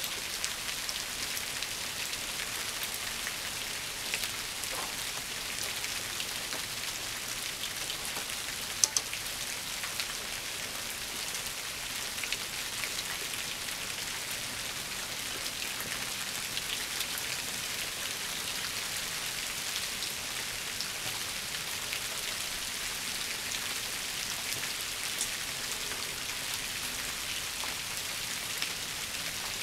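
Steady rain falling on shrubs and dead leaves, a dense even patter of drops. Two sharp ticks close together about nine seconds in stand out above the patter.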